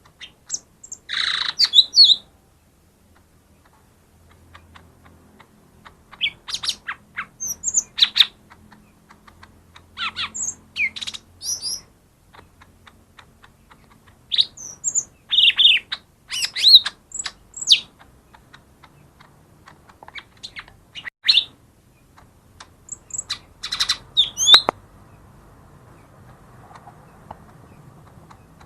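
Cucak ijo mini (a small leafbird) calling in loud clusters of sharp chirps and quick whistled notes every few seconds, falling silent for the last few seconds. It is a lure call, the kind played to provoke other leafbirds that are slow to sing.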